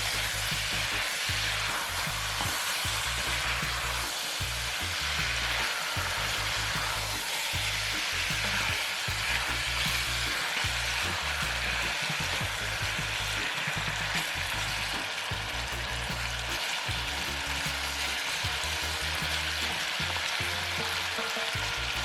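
Food sizzling steadily as it fries in a pan, with background music.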